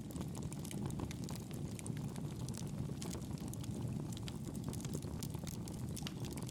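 Campfire burning with a steady low rumble of flames and frequent small, sharp crackles and pops from the burning wood.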